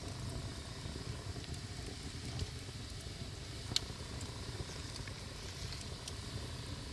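Wood bonfire burning: a steady low rumble of flames with scattered small crackles and one sharper pop about four seconds in.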